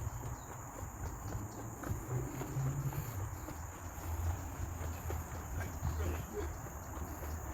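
Steady high-pitched drone of forest insects, one unbroken tone, with a low uneven rumble underneath.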